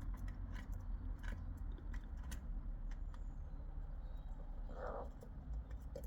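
Rook pecking, irregular sharp taps and crunching of its beak, with a brief noisy scrape about five seconds in, over a steady low rumble.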